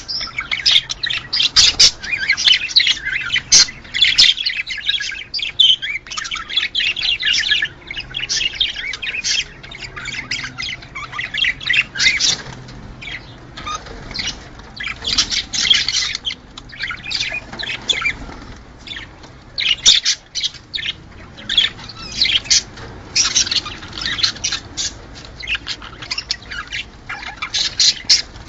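Budgerigars chattering and squawking, with many rapid chirps and warbles overlapping one another.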